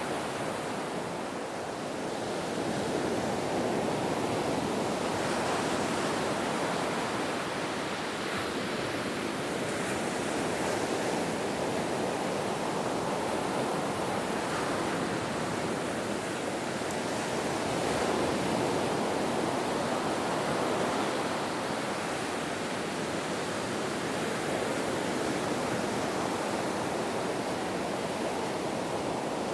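Ocean waves washing ashore in a continuous, even surf with slow gentle swells in loudness.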